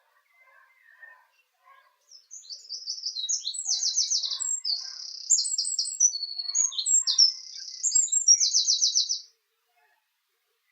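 A small songbird singing one fast, high-pitched song of rapid varied notes and trills, starting about two seconds in and lasting about seven seconds.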